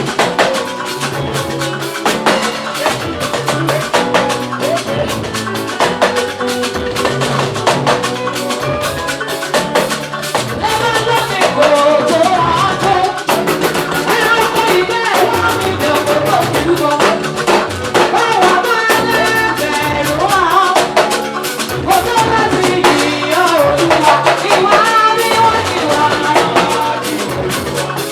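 Live gospel praise band playing, with drum kit and percussion keeping a steady beat under bass and keyboards. A wavering melody line comes in about eleven seconds in.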